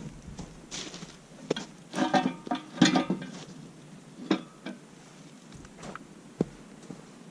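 Scattered knocks and clinks of objects being handled, with a short clattering rattle about two to three and a half seconds in.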